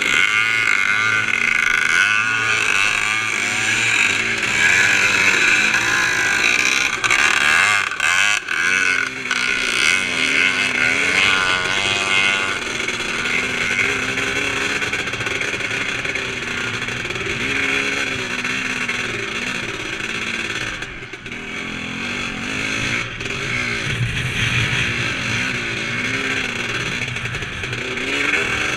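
Retro 350-class motocross motorcycle's engine, heard from on board, revving up and down with the throttle as it races over a dirt track. The throttle is shut briefly about eight seconds in and again about twenty-one seconds in.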